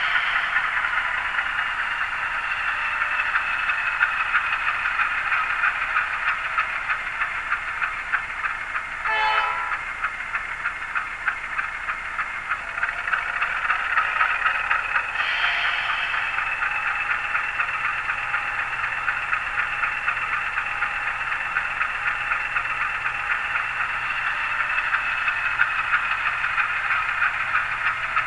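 HO scale model locomotive's LokSound sound decoder playing a GE diesel engine running sound through its small speaker, steady and tinny with a fast fine ticking throughout. A short horn toot sounds about nine seconds in, and a brief brighter burst about fifteen seconds in.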